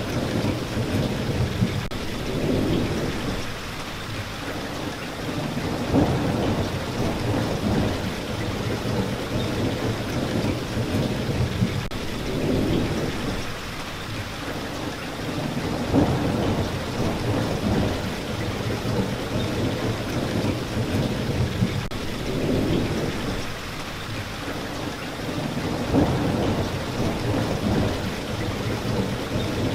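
Steady heavy rain hissing, with low rolling thunder that swells and fades several times, the rumbles peaking about every ten seconds.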